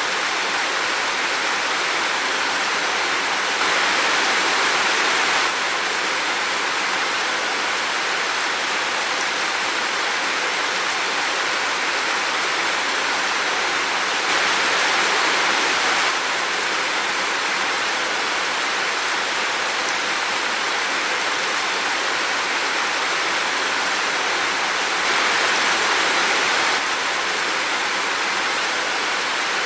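Heavy rain falling as a steady dense hiss, swelling louder for a couple of seconds three times, about ten seconds apart.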